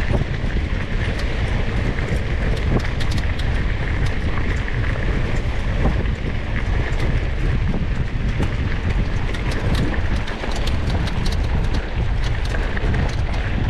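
Wind buffeting the microphone as a steady low rumble, with many scattered sharp clicks and ticks over it.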